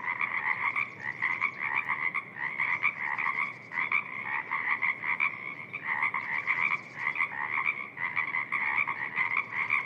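A dense chorus of many frogs calling over one another in a wetland, the pulsed calls overlapping without a break.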